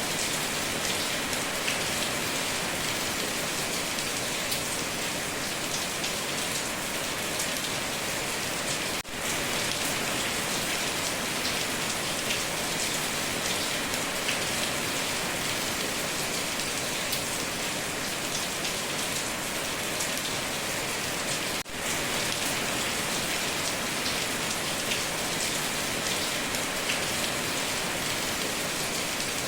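Heavy rain falling steadily on a tin roof, a dense hiss with many small drop ticks and no thunder. The sound drops out for an instant twice, about nine and about twenty-two seconds in.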